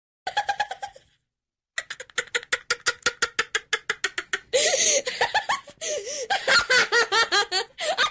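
High-pitched childlike giggling laughter in quick, repeated pulses. It stops for a moment about a second in, then starts again and turns breathier, with sliding pitch, past the middle.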